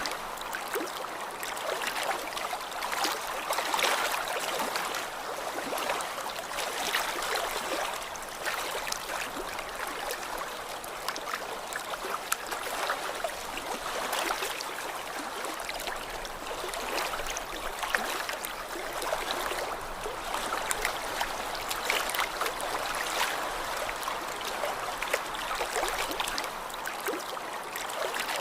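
Small lake waves lapping: a steady wash of water with many small splashes, swelling a little every few seconds.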